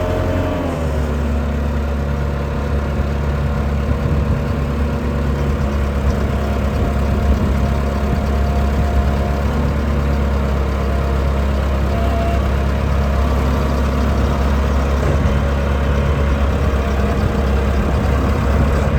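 Bobcat 943 skid steer's diesel engine running. Its revs drop about a second in, then it holds a steady idle.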